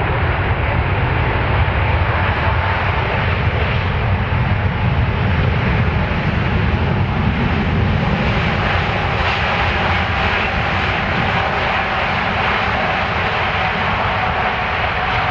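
Fixed-wing aircraft engines running loud and steady, with a thin whine that slowly falls in pitch.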